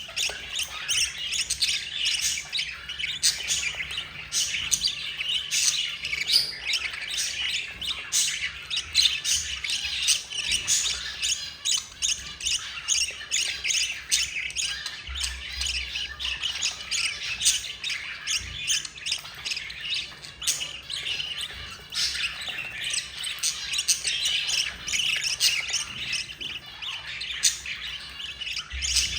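Budgerigar chicks squawking and chirping in a dense, continuous stream of short calls, the begging calls of nestlings being fed by their mother.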